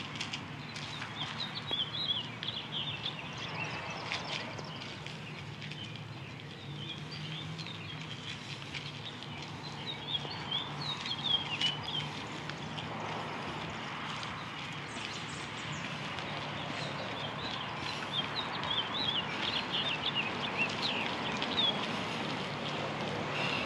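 Songbirds chirping and twittering again and again over a steady low hum.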